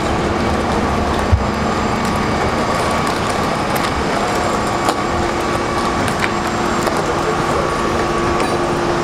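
Fire apparatus engines running steadily: a constant drone with a steady hum through it, and a sharp knock about a second in.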